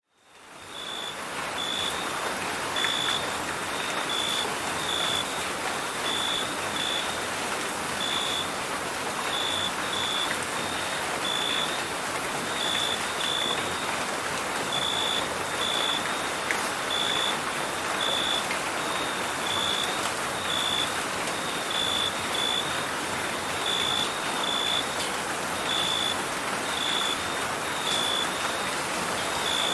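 Steady rain hiss with crickets chirping over it: short, high chirps repeating irregularly, about two a second. The whole sound fades in over the first second.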